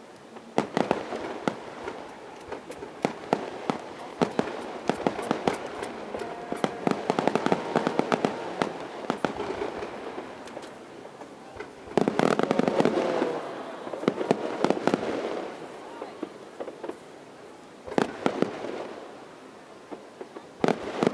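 Aerial fireworks display: many crackling, popping shell bursts, with louder bangs about twelve seconds in and again near eighteen seconds.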